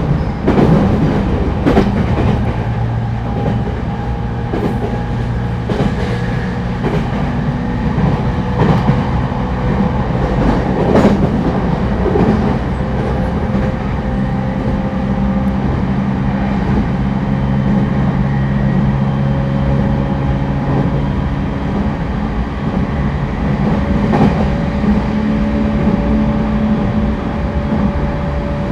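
JR East E231-1000 series commuter train running at speed, heard from inside a passenger car: a steady low rumble and hum, with a tone that rises slowly in pitch through the second half. The wheels clack sharply over rail joints several times in the first dozen seconds.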